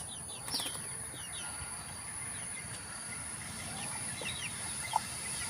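Birds chirping: short, high, falling chirps come every second or so over a steady high-pitched hiss.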